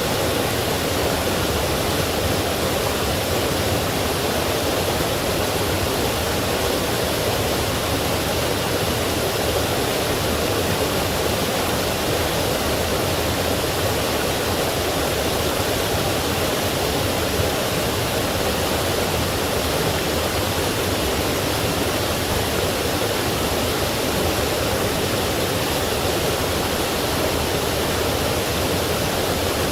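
Forest stream rushing over rocks, with small waterfalls: a steady, unbroken wash of running water.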